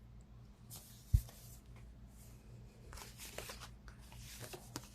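Faint handling of tarot cards: soft rustles and small taps, with one low thump about a second in.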